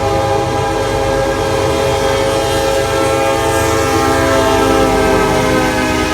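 Diesel freight locomotive's air horn sounding one long held chord over the rumble of the passing train; the horn's notes dip slightly in pitch about four and a half seconds in.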